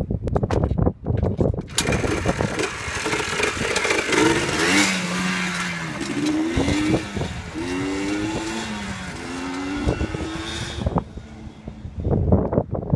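2001 Yamaha Blaster's 195cc two-stroke single-cylinder engine running with a rapid, uneven beat, then revved up and down several times for about nine seconds before falling back to a lower, pulsing run near the end.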